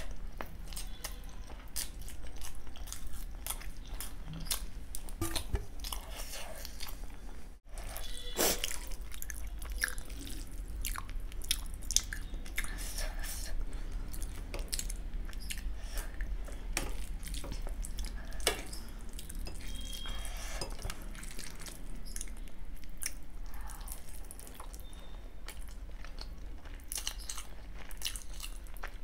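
Close-miked eating sounds: a person biting, crunching and wetly chewing dahi golgappa, crisp puri shells filled with yoghurt, in many irregular small clicks and crackles.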